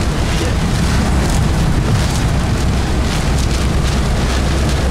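Loud, steady rush of wind buffeting the microphone together with the low rumble of a car driving on the highway, in strong storm crosswinds.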